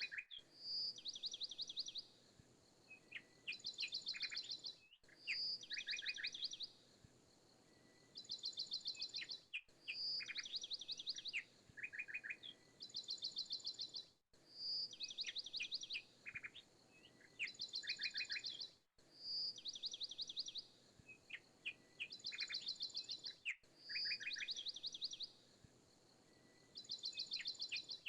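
Looped recording of birdsong, rapid high trills and chirps. The same few-second phrase repeats about every four and a half seconds, with a brief dropout at each seam.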